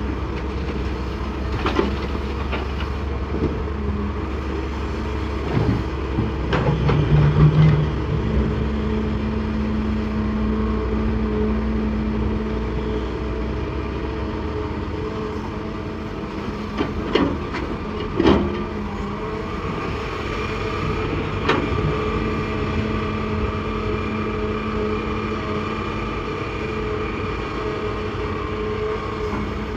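Hitachi excavator digging rock: the engine runs steadily under load, with a few sharp clanks and knocks of the bucket against rock, a cluster of them about seven seconds in and more around eighteen and twenty-one seconds.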